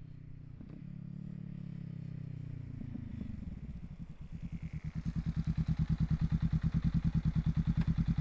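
Honda Rebel 500's parallel-twin engine through a Falcon Double Groove exhaust with the baffle (dB killer) removed. The exhaust note sinks a little at first, then grows much louder about four to five seconds in and settles into a loud, steady, even throb at constant revs, like the bike idling close by.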